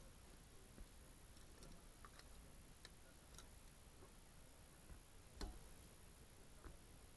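Near silence with faint, scattered light clicks, and one louder knock about five and a half seconds in.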